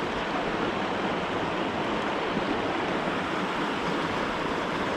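Steady rush of a flowing mountain stream, an even wash of water noise with no breaks.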